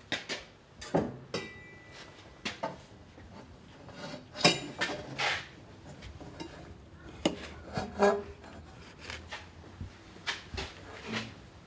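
Metal tools and exhaust parts being handled at a workbench: scattered clinks, knocks and short scrapes, irregular, a few of them ringing briefly.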